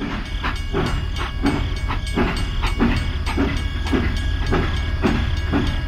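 A small machine running with a regular chugging beat, about three beats a second, over a steady low hum.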